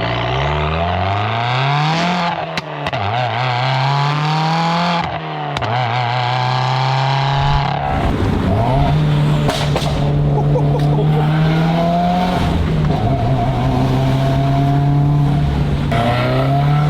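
Subaru WRX FA20 turbocharged 2.0 litre flat-four through a titanium valved cat-back exhaust, pulling hard: the engine note climbs and falls back sharply about two, five and eight seconds in, like upshifts, then rises in longer steady pulls.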